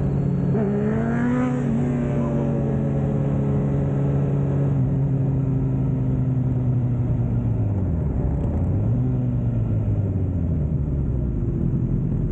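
Motorcycle engines running at riding speed, one held at a steady pitch. About a second in another engine revs up in a rising whine, and around eight seconds in the engine note drops and picks up again twice as the throttle is eased and reopened.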